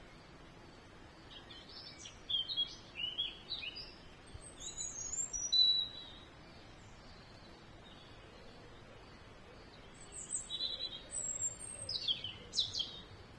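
Small songbirds chirping and singing in two bouts of quick, varied high notes, the first starting about two seconds in and the second near the end, over a faint steady background hiss.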